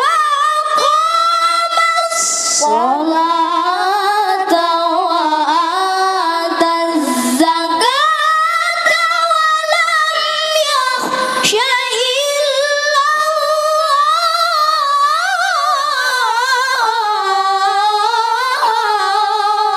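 A child qari's high voice reciting the Quran in melodic tilawah style: long drawn-out melismatic phrases with ornamented turns of pitch. There is a brief break about halfway.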